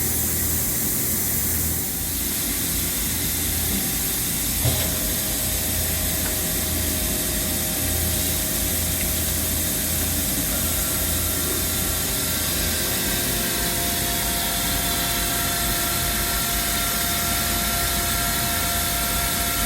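2009 Okuma MC-V4020 CNC vertical mill running with a steady hiss. After a click about five seconds in, a steady whine sets in, and a second, higher whine joins about halfway through.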